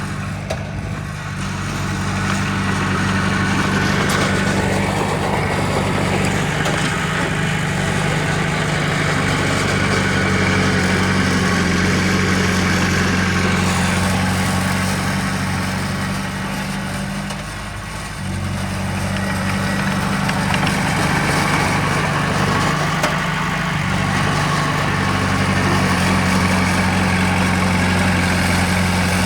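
Heavy diesel engine of an earthmoving machine running steadily, easing off briefly about a second in and again a little past halfway.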